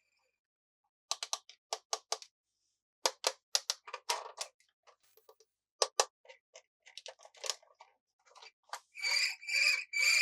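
Sharp clicks and crackles of plastic toy pieces and packaging being handled during an unboxing. Near the end, a high steady tone comes in.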